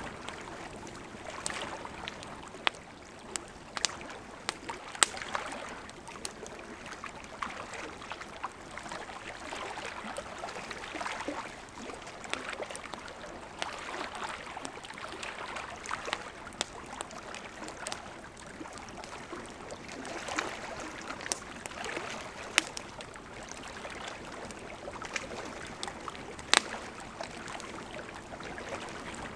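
Wood campfire burning, with a steady soft hiss and frequent sharp crackles and pops; a few louder snaps stand out, about five seconds in and again near the end.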